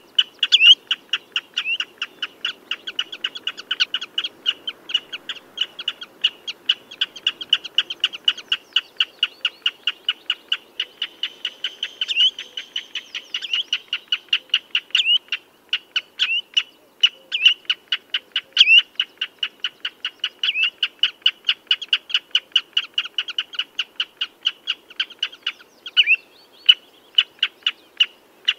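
Common redshank calling: a rapid, unbroken series of short high piping notes, several a second, with louder down-slurred notes now and then.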